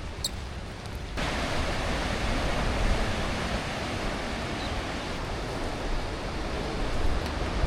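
Steady rushing noise outdoors, which turns suddenly louder about a second in.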